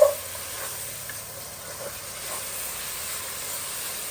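Curry paste of curry powder, turmeric and a little water sizzling steadily in a hot pot of coconut oil, with a short knock right at the start.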